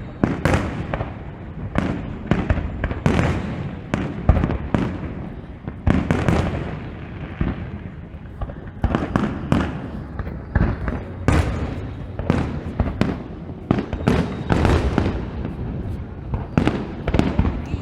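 Fireworks display: a rapid, irregular barrage of sharp bangs and deeper booms, several a second and overlapping, with no break.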